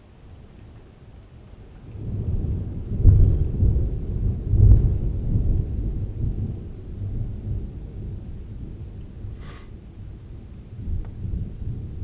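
Thunder rumbling, building about two seconds in, loudest with two deep peaks a few seconds in, then rolling away slowly.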